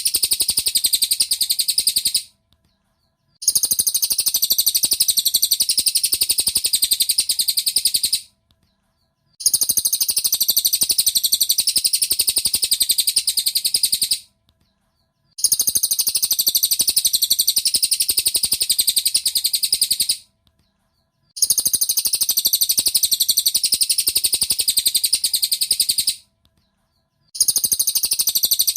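Cililin bird song played as a masteran recording: rapid, high, dense chirping in stretches of about five seconds, each broken off by a silence of about a second, repeating evenly like a loop.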